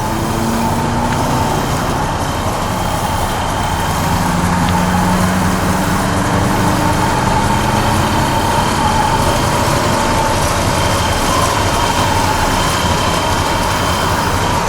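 1966 Chevrolet C-10 pickup with a 350 V8, running steadily: a continuous engine and road noise with a faint steady whine over it.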